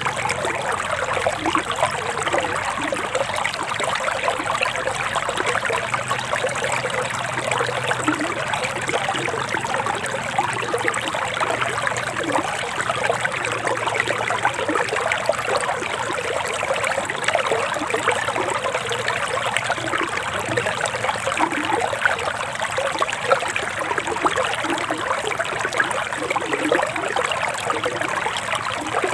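A forest river flowing steadily, a continuous trickling rush of water.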